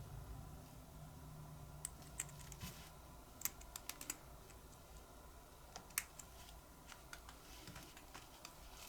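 Scattered light clicks and taps, irregular and about a dozen in all, from small parts of a butane lighter being handled and fitted together, over a faint low hum.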